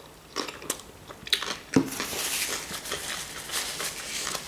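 Close chewing of a mouthful of fresh vegetable salad (lettuce, cucumber, tomato, onion): crisp, wet crunching with mouth clicks, a few at first, then denser from about a second and a half in.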